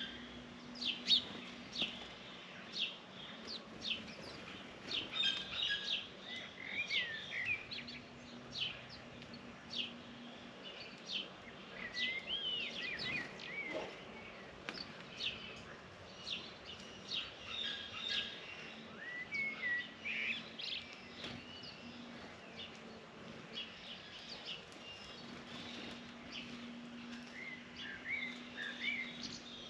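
Many small birds chirping and tweeting, short calls and rising-and-falling notes overlapping throughout, over a faint steady low hum.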